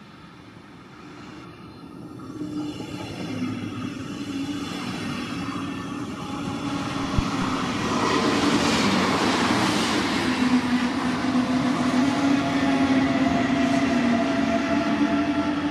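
Electric train approaching and passing on the main line: the rush of wheels on rails grows louder over the first half, then stays loud, with a steady low humming tone running through it.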